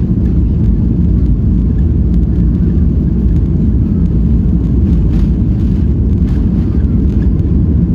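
Boeing 737-800's CFM56-7B turbofan engines at takeoff thrust, heard from inside the passenger cabin as a loud, steady rumble.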